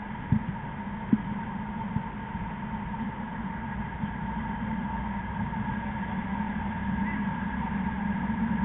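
A steady mechanical hum with a few brief thumps in the first second or so.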